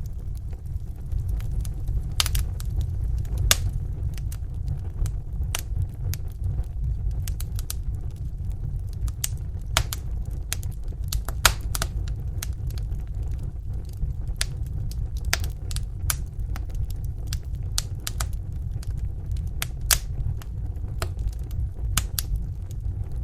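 Wood fire burning in a fireplace: a steady low rumble of the flames with irregular sharp pops and crackles, several a second.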